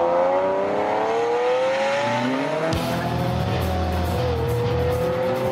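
Bugatti Veyron's W16 engine accelerating, its note rising steadily for about three seconds and then holding level.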